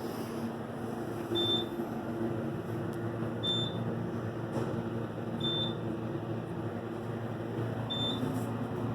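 Steady low mechanical hum with a short, high-pitched electronic beep that repeats about every two seconds, four times.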